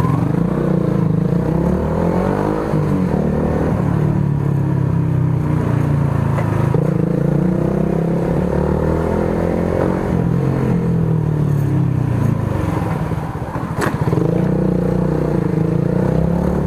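Motorcycle exhaust through an aftermarket muffler with its silencer insert fitted, the engine revving up and falling back several times. It is still very loud even with the silencer in.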